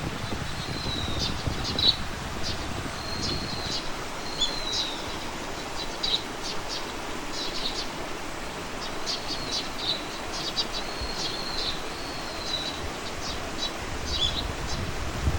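A songbird calling over and over: a short whistled note followed by a few quick high chips, repeating about every second and a half, over a steady low rumble.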